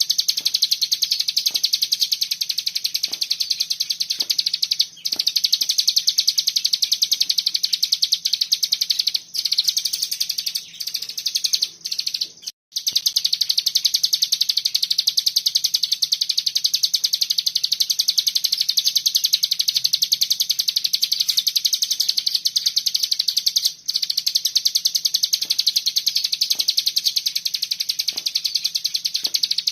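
Cigun songbird singing in a rapid, unbroken machine-gun-like trill (the 'Bren' style), high-pitched and fast-pulsed, with a few short breaks, the longest just under halfway through.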